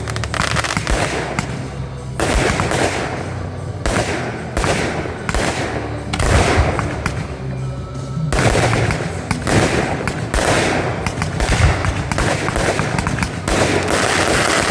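Fireworks display: rapid launches and bursts of shells, many bangs a second with stretches of crackling, over music.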